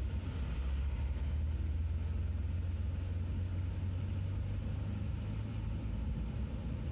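Steady low engine and road rumble heard from inside a car moving slowly uphill in traffic.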